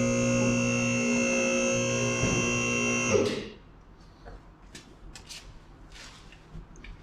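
Small electric air-ride compressor running with a steady hum, then cutting off suddenly about three seconds in. Only faint clicks and handling noises follow.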